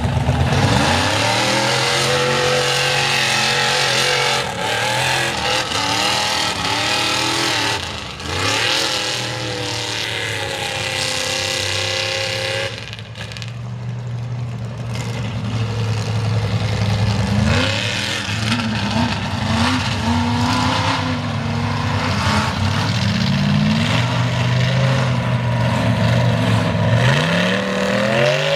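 Mega truck engine revving hard under load, pitch rising and falling as the throttle is worked. The engine eases off briefly about halfway, then surges up and down repeatedly toward the end.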